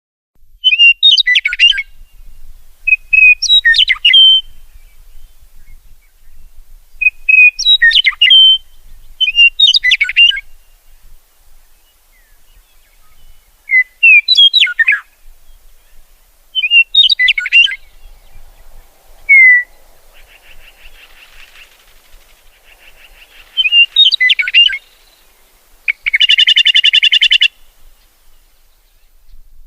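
A bird singing short, loud whistled phrases, one every two to three seconds, with a fainter buzzy trill behind them in the later part and a harsh buzzy note near the end.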